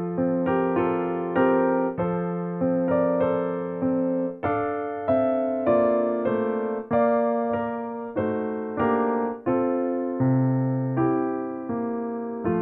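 Background music: a gentle piano melody, notes struck and left to fade, in an unhurried rhythm.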